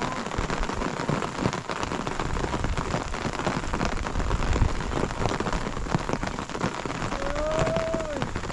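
Steady rain falling, a dense patter of drops. Near the end comes one short pitched call that rises and then falls.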